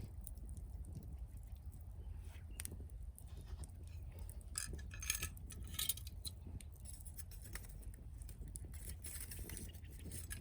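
Campfire of dry split firewood burning, crackling with irregular sharp pops and snaps over a steady low rumble, the pops thickest around the middle and again near the end.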